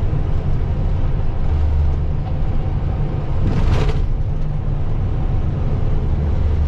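Semi-truck's diesel engine droning steadily in the cab at highway speed, with road noise. A brief whoosh comes about halfway through.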